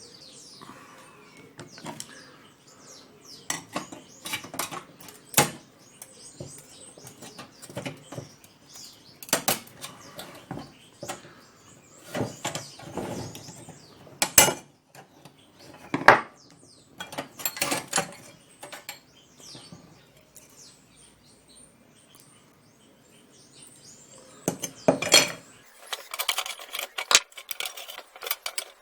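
Pieces of broken glass being picked out of a homemade copper and brass lamp, clinking against each other and the metal frame in irregular bursts, with a lull about two-thirds of the way through before another cluster of clinks.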